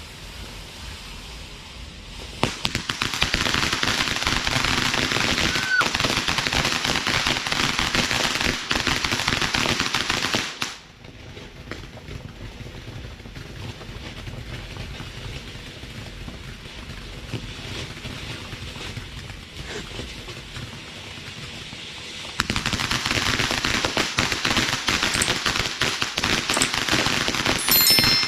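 TNT Fireworks "Goblins" ground fountain firework spraying with dense rapid crackling. It turns loud a couple of seconds in, drops to a quieter crackle at about eleven seconds, and grows loud again at about twenty-two seconds.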